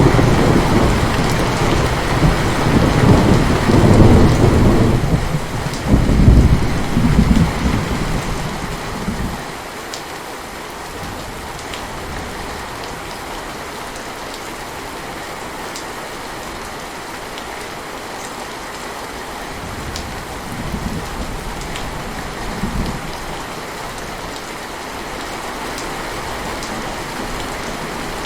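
Steady heavy rain with thunder rolling. A long loud rumble opens and dies away about nine seconds in, leaving the rain alone, and softer rumbles come near the end.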